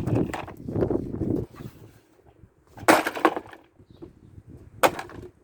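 Hammer blows smashing plastic items: a crunching clatter over the first second and a half, then two sharp cracking strikes, about three and five seconds in.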